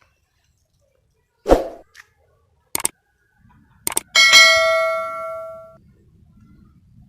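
A few knocks and clicks, then a hard object struck once, ringing with a clear clang that dies away over about a second and a half.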